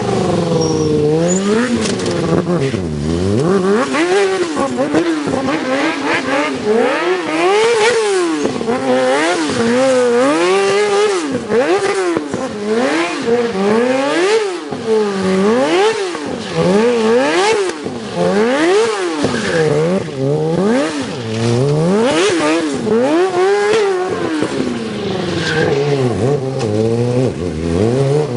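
Motorcycle engine revved up and down over and over, its pitch rising and falling about once a second, as during stunt maneuvers.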